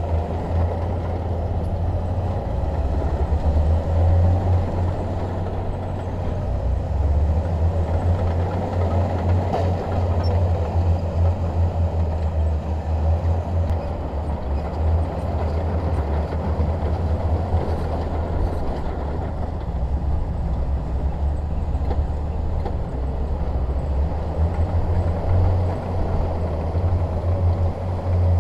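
Bulldozer's diesel engine running steadily under load, a deep rumble with a rough mid-range grind that swells and eases a little.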